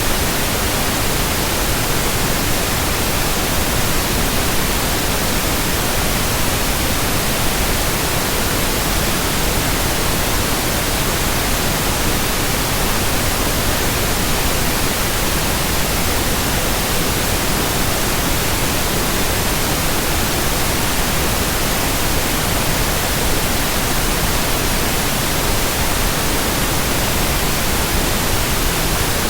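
Steady white-noise hiss, spread evenly from deep rumble to high hiss, with no change in level, pitch or rhythm.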